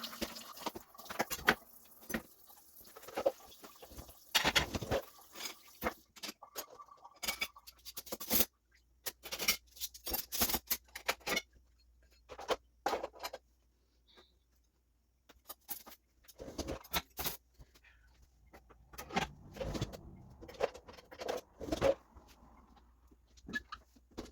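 Dishes and cutlery clinking and clattering as they are loaded into a dishwasher: irregular sharp knocks in busy runs, with a short lull in the middle.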